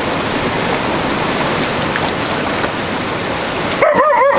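Mountain stream water rushing steadily. Near the end, a short wavering, high-pitched call rises over the water.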